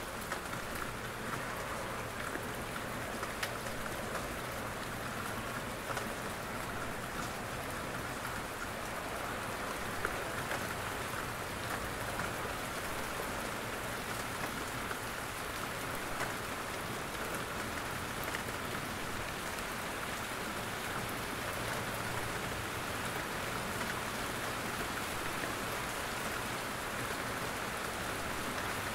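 Steady rain falling in a forest, with many single drops pattering from the trees through an even hiss.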